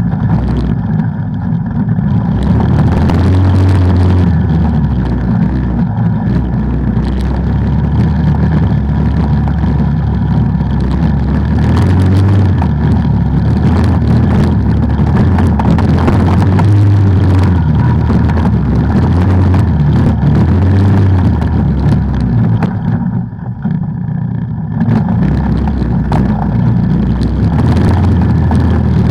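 Off-road vehicle engine running hard and steadily under throttle, with rattling and knocks on top. The throttle eases off briefly about two-thirds of the way through, then picks up again.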